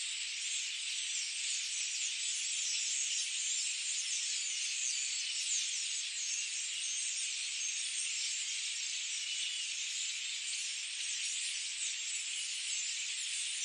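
Dense chorus of many small birds chirping and twittering over one another, a steady high-pitched wash of overlapping calls with no low sounds beneath.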